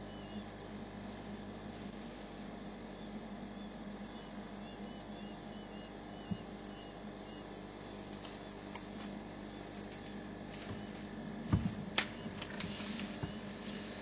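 Crickets chirping in a regular rhythm over a steady low hum. In the second half, twigs and branches snap and leaves rustle as young bull elephants push and spar in the bush, with two sharp cracks a little before the end that are the loudest sounds.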